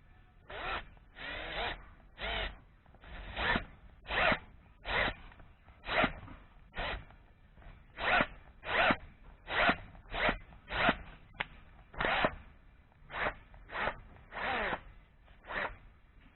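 A hand tool worked on metal in about twenty short rasping strokes, a little under one a second, each stroke a brief scraping burst with a pause between.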